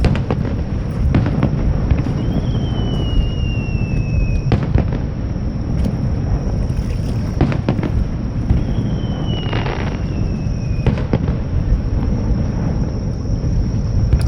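Fireworks display: a steady low rumble of booms with several sharp bangs. Twice a thin whistle lasts about two seconds, dropping slightly in pitch, and ends in a loud bang as a whistling shell bursts.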